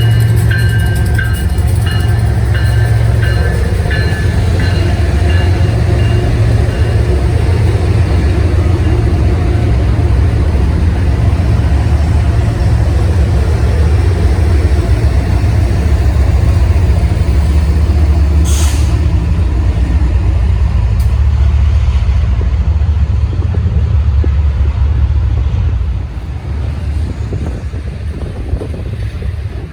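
A diesel-hauled train passing close by: a steady, heavy rumble of engines and wheels on rail. There is a brief sharp high-pitched burst about two-thirds of the way through, and the sound drops off noticeably near the end.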